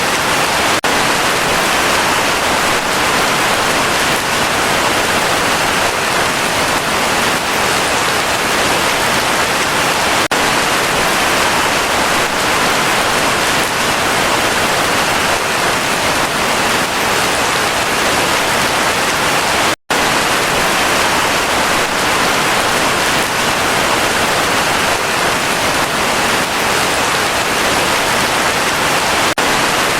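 Heavy rain falling steadily, a dense even hiss. It cuts out for a split second about two-thirds of the way through.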